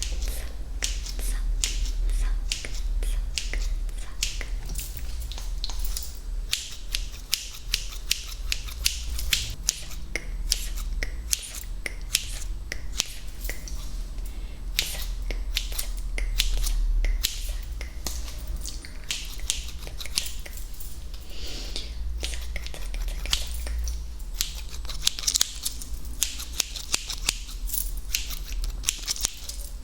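Close-miked ASMR trigger sounds: a dense run of crisp clicks and snaps, several a second, over a steady low hum.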